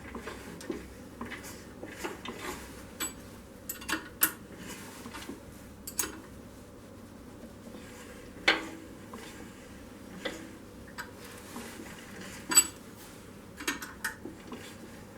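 Irregular light metallic clicks and clinks from the newly fitted 12-volt generator on an Izh Jupiter 3 engine being turned over by hand to check that the rotor does not catch on anything. One louder clink comes a little past the middle and another near the end.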